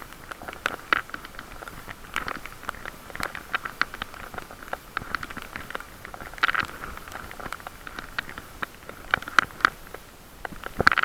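Bicycle drivetrain squeaking while being pedaled: short, high squeals at irregular intervals, roughly once a second, with a few louder clusters. The squeal comes only while pedaling, which the rider puts down to the linkage between the pedals and the rear wheel, perhaps the freewheel.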